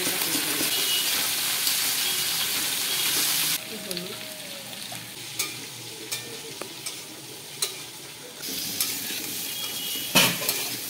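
Oil sizzling as rohu fish heads and potato pieces fry in metal woks, stirred with a metal spatula. The sizzle drops suddenly about a third of the way in to quieter spatula scrapes and taps, rises again later, and a sharp clank of the spatula on the pan comes near the end.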